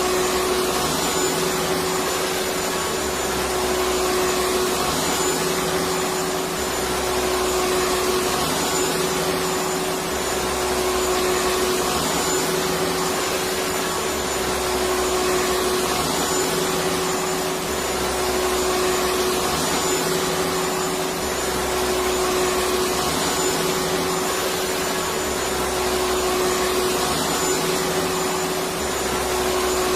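Vacuum cleaner running steadily: a constant motor whine over a hiss of rushing air, with the low hum swelling and fading every few seconds.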